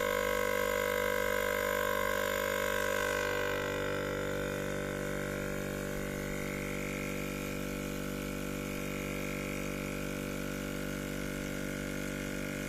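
Refrigerator compressor running, a steady hum made of many fixed tones.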